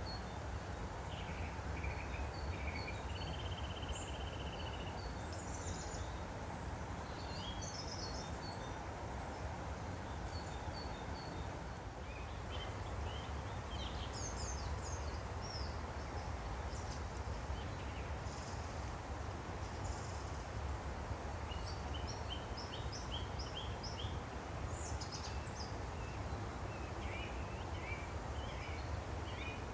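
Woodland stream flowing steadily, with small birds chirping and singing over it throughout, including a short buzzy trill near the start.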